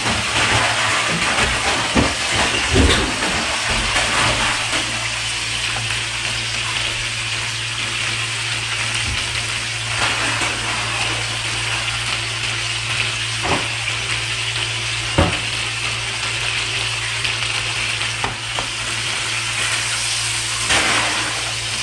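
Panko-breaded mutton snapper chunks deep-frying in hot oil in a pan: a steady, even sizzle, with a few sharp clicks.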